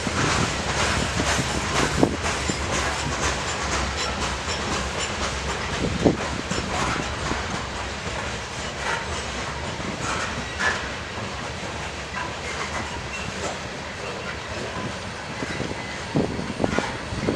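Railroad cars rolling past on the track: a steady rumble of wheels on rail with irregular clicks and clacks as the wheels cross rail joints.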